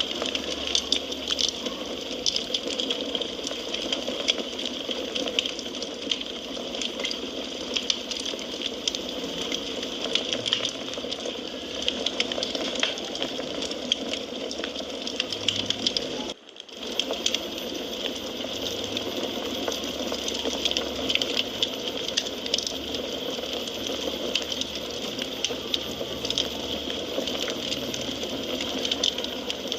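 Wood fire crackling in a fireplace: a steady hiss of burning with dense, irregular pops and snaps. The sound drops out for a moment just past halfway.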